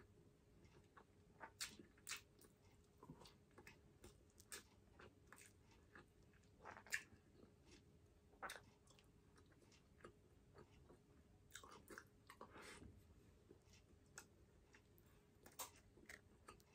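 Quiet, close-miked chewing of baked salmon and rice: a scatter of short wet smacks and mouth clicks, the loudest about seven seconds in.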